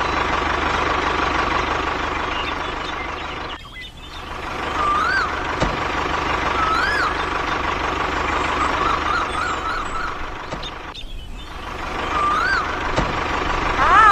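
RC mini tractor's motor and gears running with a steady whine, cutting out briefly twice. A few short high chirps sound over it.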